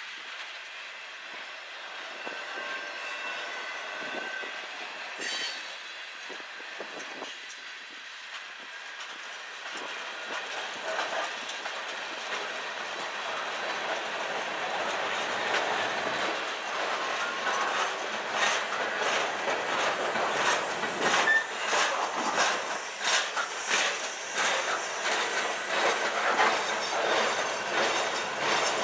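CN manifest freight train rolling past on the track, its wheels clicking over the rail joints. It gets steadily louder through the second half as the clicks become dense and regular.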